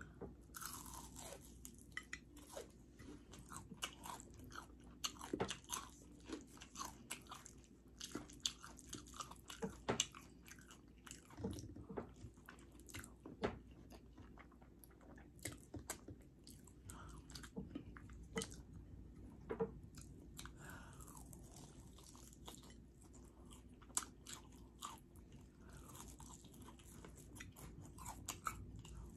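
Close-up mouth sounds of eating fried chicken and noodles: crunchy bites and chewing, with many irregular crisp clicks and smacks.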